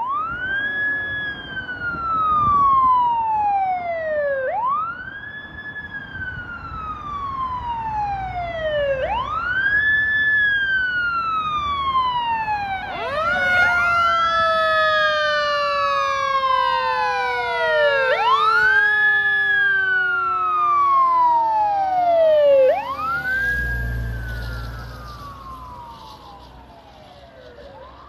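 Fire engine siren on wail: each cycle rises quickly and falls slowly, about every four and a half seconds. From about halfway a second siren tone joins, sliding slowly downward over several seconds. A brief low rumble comes near the end, and the sound fades as the engine moves away.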